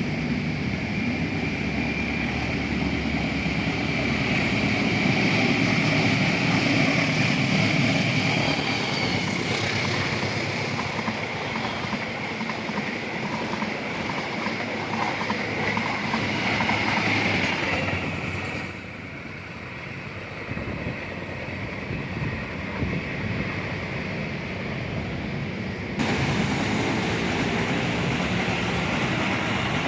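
A train running past on the rails, a steady loud rumble with a high, steady whine over it. It fades down about eighteen seconds in, then cuts back up suddenly near the end.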